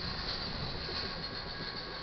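Last cars of an intermodal freight train rolling past, their steel wheels rumbling and hissing on the rails. The rumble eases about a second in as the end of the train clears, and a faint steady ringing tone comes in.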